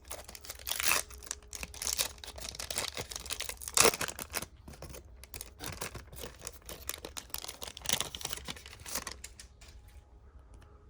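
A foil trading-card pack wrapper being torn open and crinkled, with cards being handled. The crackling dies down about nine seconds in.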